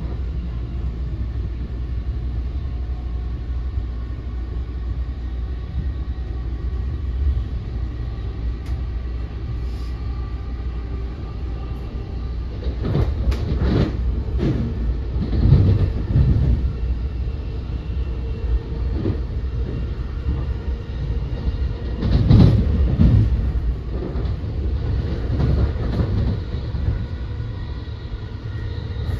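Steady low rumble of an NJ Transit Multilevel passenger coach running at speed, heard from inside the car. Twice the wheels clatter in quick runs of knocks over switches, about halfway through and again about three-quarters of the way in.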